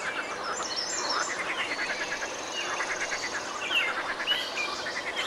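Several songbirds singing at once, with overlapping chirps, quick trills and short sliding whistles.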